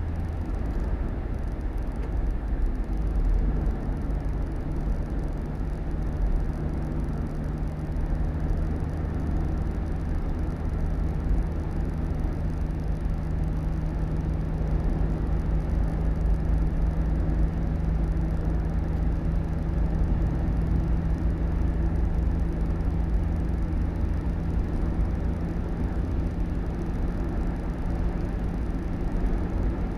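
A motor vehicle running steadily: a low engine hum over a constant road rumble.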